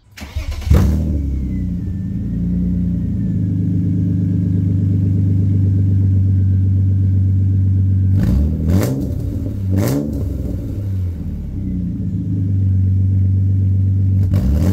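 BMW S52 3.2-litre inline-six in a Z3 M Coupe starting with no mufflers fitted: it cranks, catches with a loud flare under a second in, then idles loudly through the open exhaust. A few short throttle blips come from about eight seconds in, and another near the end.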